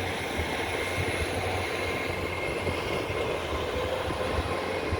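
Great Western Railway Class 802 bi-mode IET train pulling out of the station and passing, its underfloor diesel engines running and its wheels rolling on the rails as a steady noise with a faint high whine.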